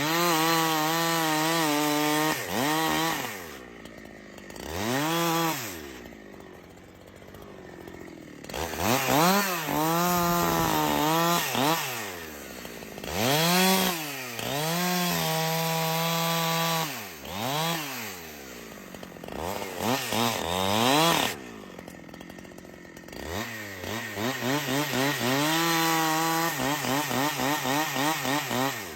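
Chainsaw cutting wood, revved up to full speed in repeated bursts and dropping back toward idle between them; near the end the engine pulses quickly.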